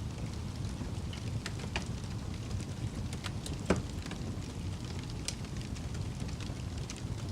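Wood fire crackling: a steady low rumble of burning with scattered sharp pops and snaps, one louder pop about halfway through.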